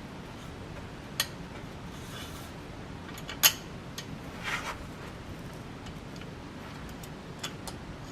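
Scattered light clicks and a sharper click about three and a half seconds in, with a brief rustle, as the blades and hardware of a Baja Satellite ceiling fan are handled during assembly.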